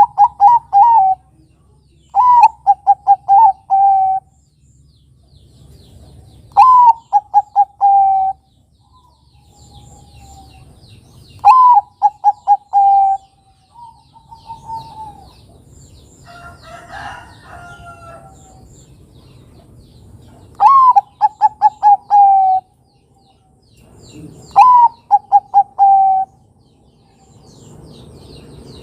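Zebra dove (Bangkok-type perkutut) cooing its song: a rising first note followed by a quick run of about five short coos, repeated six times with pauses between phrases. A rougher call sounds once around the middle, and faint high chirps of small birds come through between phrases.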